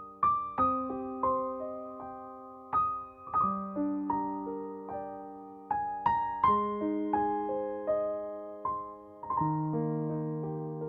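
Background music: a slow, gentle solo piano melody, notes struck and left to ring and fade.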